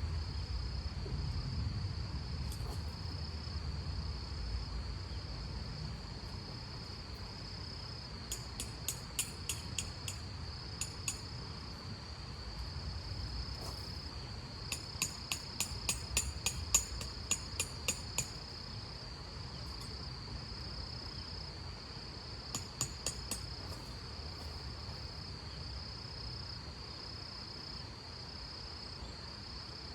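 Crickets trilling steadily at a high pitch, with three runs of sharp ticking at about four ticks a second. A low rumble is heard in the first few seconds.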